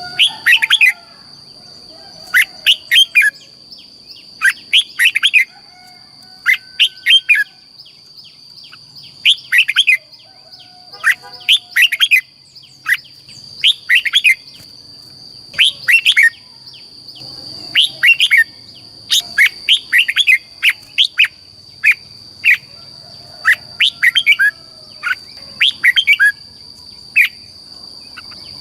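Red-whiskered bulbul song: short phrases of quick, bright chirping notes, repeated every second or two, of the kind played to train caged bulbuls and rouse them to sing. A steady high-pitched tone runs underneath.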